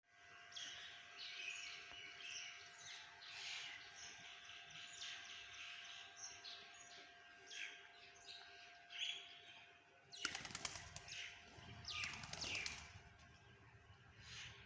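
Small birds chirping over and over, then a bird's wings flapping in flight twice, a quick flutter about ten seconds in and again about twelve seconds in. A faint steady hum runs underneath.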